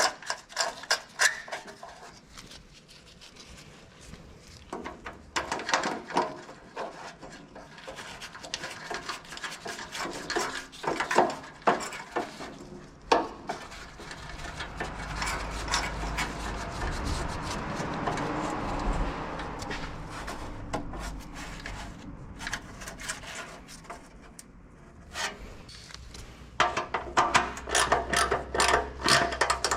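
Hand work on car parts: scraping and rubbing with scattered clicks and knocks of tools on metal, and a quick run of clicks and knocks near the end.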